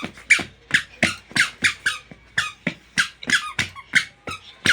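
A rapid, regular series of short, high squeaks, about three to four a second.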